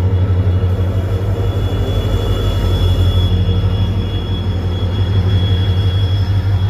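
WDP-4D diesel locomotive's EMD 16-710 two-stroke engine working as it departs: a loud, deep, evenly pulsing rumble with a steady high whine above it.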